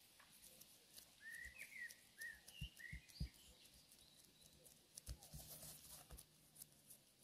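Faint outdoor quiet with a few short bird chirps in the first few seconds, alongside soft taps and the crinkle of plastic-gloved hands folding and pinching dough on a plastic cutting board.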